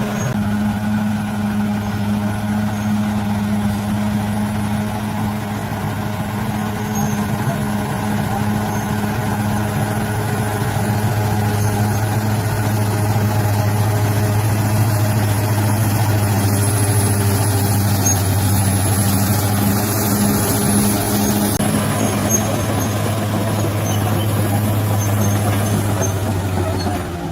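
Bulldozer's diesel engine running steadily with a low drone, getting a little louder about ten seconds in.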